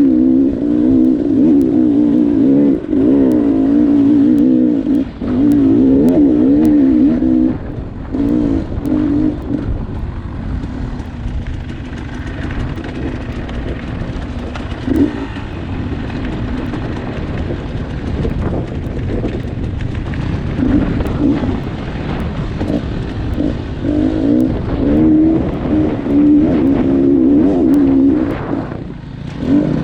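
Dirt bike engine revving hard, its pitch wavering up and down, then running quieter and lower through the middle before revving hard again near the end.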